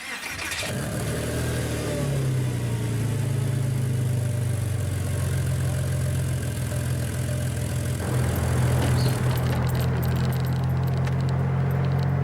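Porsche Boxster 986's flat-six engine running at a steady idle. It comes in suddenly at the start, rises slightly in pitch over the first couple of seconds, then holds. Some light rattling clicks sound near the end.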